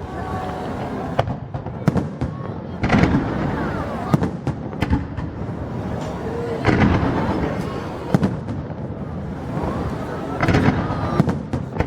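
Fireworks bursting one after another: sharp bangs every second or two, with heavier clusters of bursts about three, seven and ten and a half seconds in.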